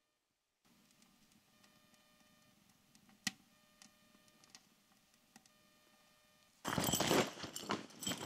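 Faint quiet background with a single sharp click about three seconds in. Near the end, crunching footsteps in deep snow start suddenly and much louder.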